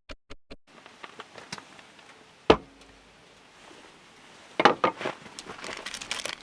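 A rhythmic electronic synth beat stops under a second in, leaving a quiet background. About two and a half seconds in comes one sharp knock, then a quick cluster of clicks and knocks near five seconds and a run of small crackling clicks near the end.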